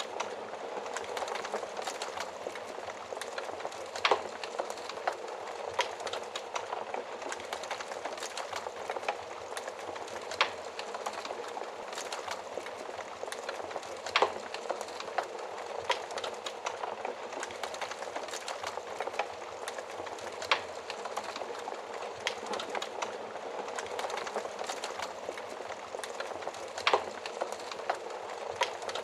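Wood fire crackling steadily, with a dense bed of small crackles and sharp pops every few seconds.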